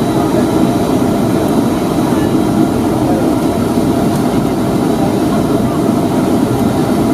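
Steady cabin noise of a Boeing 757-200 with its Rolls-Royce RB211 engines running at low power while taxiing, an even low drone with a faint high whine.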